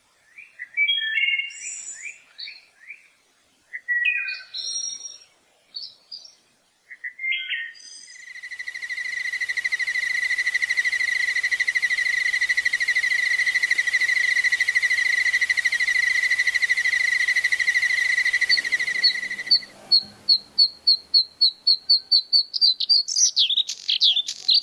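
Recorded birdsong: several short, complex chirping phrases. Then comes a steady high buzzing trill lasting about eleven seconds, which stops suddenly. It is followed by a run of short whistled notes that speed up into a final flourish.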